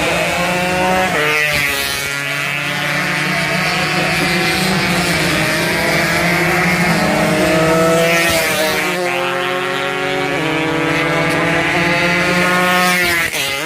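Two-stroke racing motorcycles running flat out, several engines heard at once. Their pitch climbs through each gear and drops at the shifts.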